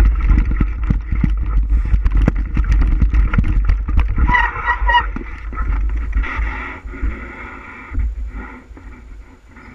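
Wind rumbling on the microphone of a camera on a moving bike, with rattles and knocks from the rough trail, fading away as the bike slows down.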